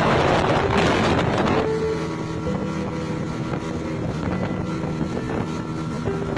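A boat's engine running steadily with a low hum. Wind buffets the microphone for the first second and a half or so.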